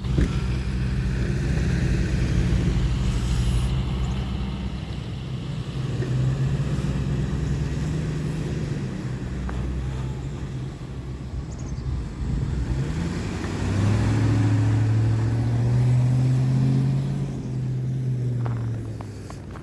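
A motor vehicle engine running steadily. About two-thirds of the way through its pitch rises briefly and it runs a little louder for a few seconds, then eases off near the end.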